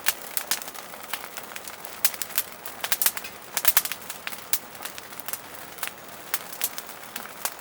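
Wood burning in a small fire pit, crackling with irregular sharp pops and snaps, several a second.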